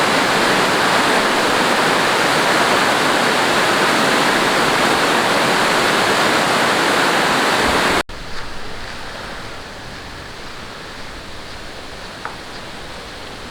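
Mountain stream rushing loudly over rocks, a steady hiss of water, then cutting off suddenly about eight seconds in to a much quieter, more distant stream sound.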